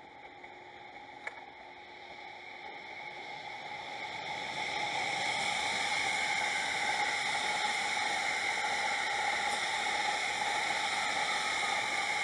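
A passing electric multiple-unit express train: a steady rushing rolling noise from wheels on rails that builds over the first few seconds, then holds.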